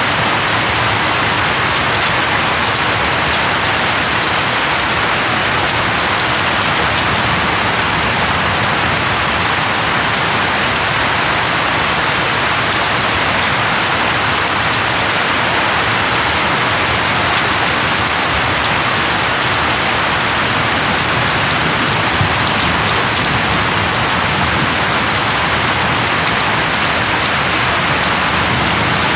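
Steady rain falling, a dense even hiss of drops with individual drop ticks.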